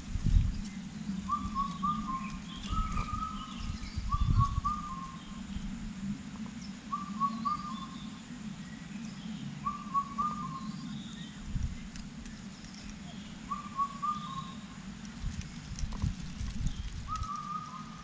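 A bird's short whistled phrase of three or four quick notes, repeated every couple of seconds, over a low rumble with a few dull knocks.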